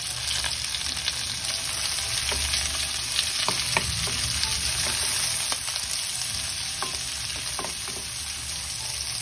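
Garlic, onion and meat sautéing in a hot pan: a steady sizzle, with scattered clicks of a utensil stirring against the pan.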